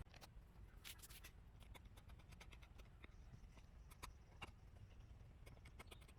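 Near silence with faint, irregular small clicks and ticks scattered throughout, a few slightly louder near one, four and four and a half seconds in.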